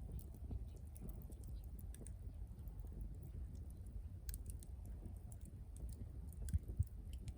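Wood fire burning: scattered small crackles and pops over a low, steady rumble, with a couple of soft low thumps near the end.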